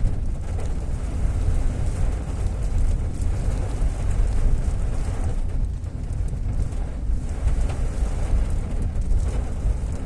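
Fairly heavy rain falling, with a steady low rumble of wind buffeting the microphone.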